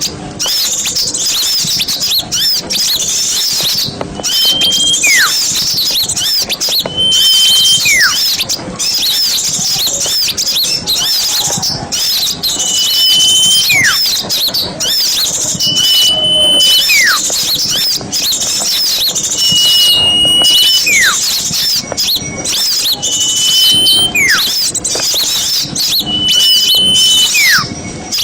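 Bird-lure recording of mixed small songbirds: dense, high chattering and twittering throughout, with a call repeating about every three to four seconds, a short steady whistle followed by a falling whistle.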